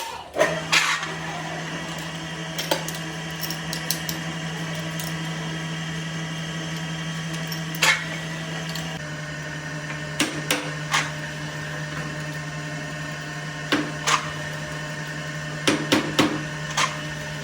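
A workshop machine's electric motor starts up and runs with a steady hum, dropping slightly in pitch about halfway through. Sharp metallic clicks and knocks come now and then over it.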